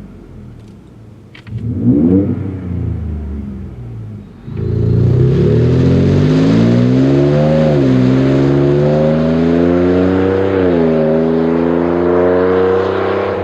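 Ford F-150 engine through a Flowmaster FlowFX stainless cat-back exhaust: a quick rev about two seconds in, then from about four and a half seconds the truck accelerates hard, the exhaust note climbing in pitch and dropping back at each of about three upshifts.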